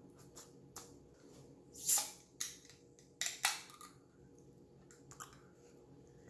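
Close-up eating sounds from a person's mouth: a handful of short chews and smacks, the loudest about two seconds in and another pair about a second later.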